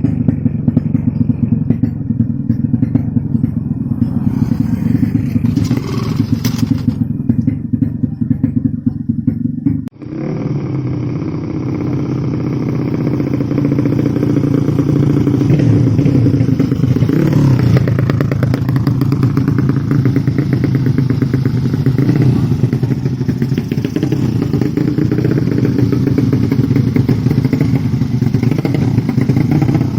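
Motorcycle engines running continuously, with a dense low rumble. The sound breaks off abruptly about ten seconds in and resumes brighter. Engine pitch dips and rises once a few seconds later.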